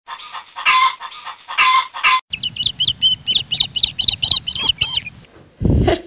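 Bird calls: a few harsh calls, then a quick run of short, high repeated chirps, about three a second. A short low thud comes just before the end.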